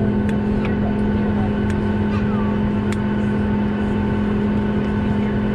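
Steady drone of a Boeing 737 airliner's cabin under way, engine and airflow noise with a constant low hum and a few faint ticks.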